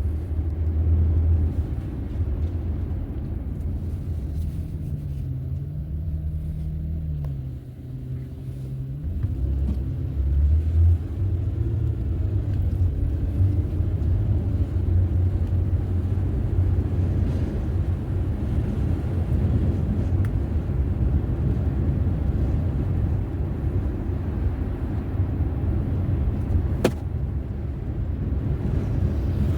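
Car driving, heard from inside: a steady low road and engine rumble. A low engine tone rises and falls a few seconds in, the rumble dips briefly near the middle, and there is one sharp click near the end.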